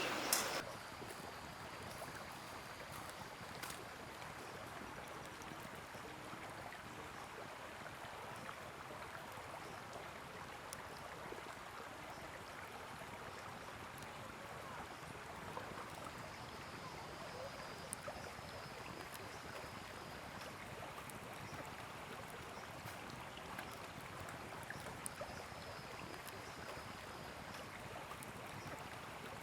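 Faint steady rushing noise, like running water or a low fire, with a few small ticks and two brief faint high whistles.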